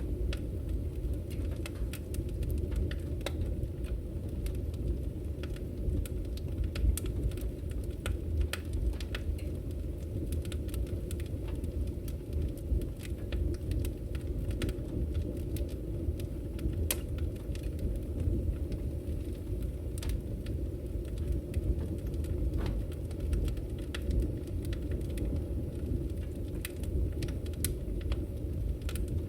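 Firewood burning in a fireplace, crackling with frequent irregular sharp pops and snaps over a steady low rumble of the fire.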